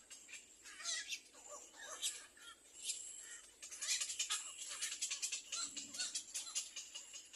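Nestling birds begging with rapid, high-pitched chirps, the chirping growing denser about halfway through.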